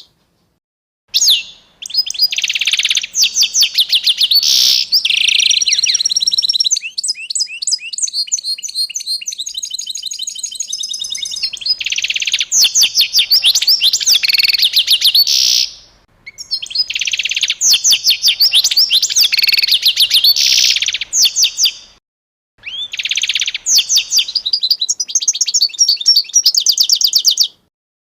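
A songbird singing long phrases of rapid, high chirps and trills, with a fast rattling trill in the middle and short silent breaks between phrases.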